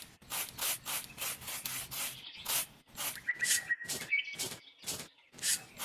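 Rapid back-and-forth rubbing or scraping strokes, about four a second, with a faint high chirp in the middle.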